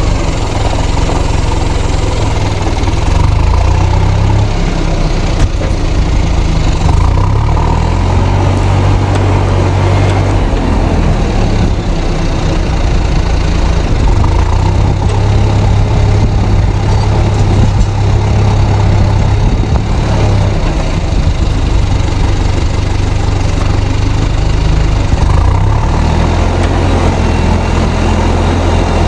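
Fendt 307 Ci tractor's turbocharged diesel engine pulling a plough, with the turbo whistling over the engine drone. The load and engine note rise and fall several times.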